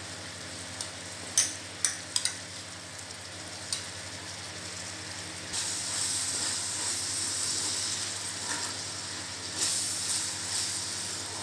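Chopped onions and ginger-garlic paste frying in oil in a clay pot: a steady sizzle with a few light knocks in the first few seconds, growing louder about halfway through as a wooden spatula stirs them.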